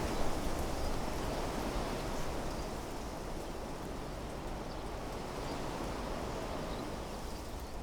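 Wind blowing through trees and shrubs, a steady rushing of foliage that eases a little a few seconds in, with a few faint, short high bird chirps above it.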